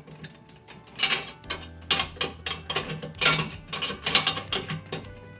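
Metal hardware and hand tools being handled while assembling an Alaskan chainsaw mill: irregular bursts of clicking and rattling, roughly once a second.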